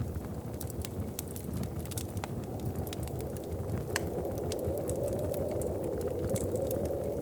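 Wood fire crackling, with scattered sharp pops over a steady low rumble. A hollow wind howl swells up from about halfway through.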